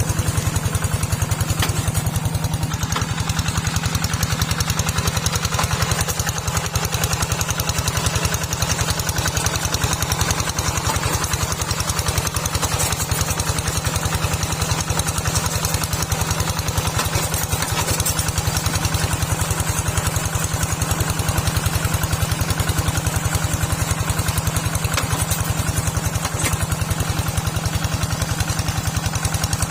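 Small tractor engine running steadily at an even speed, with a rapid, regular firing pulse.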